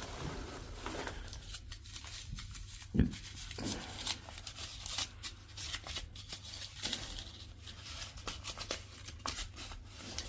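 Packaging being unwrapped by hand: crinkling and tearing of the wrapping around newly delivered parts, with one low bump about three seconds in.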